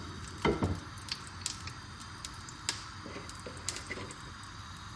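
Chicken skin frying in hot duck fat: a steady sizzle with scattered sharp pops and crackles.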